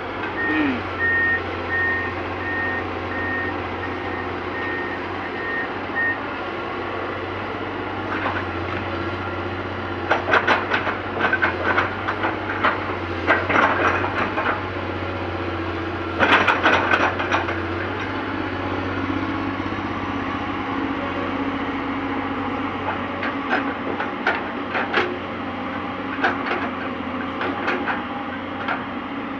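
Excavator's diesel engine running steadily, its alarm beeping about twice a second for the first few seconds. From about ten seconds in come several bursts of clattering knocks and scraping as the machine works.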